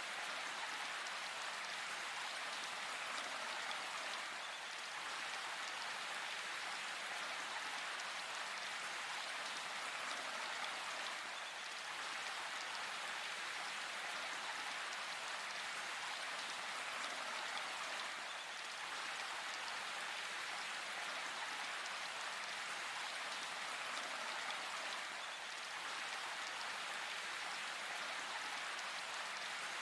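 Steady rain falling in a forest, an even hiss of many drops with no thunder.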